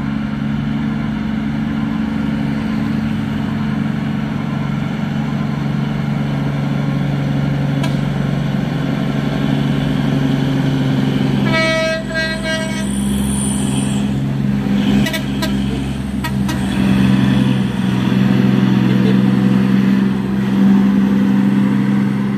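Heavy truck engine running with a steady low drone, and a vehicle horn sounding once for about a second midway through.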